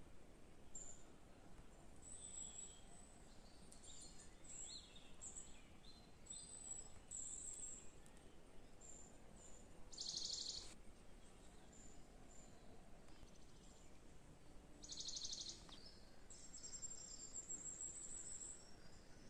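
Faint birdsong from several small birds: scattered short high chirps and calls, with two louder rapid trills about ten and fifteen seconds in and a longer high trill near the end.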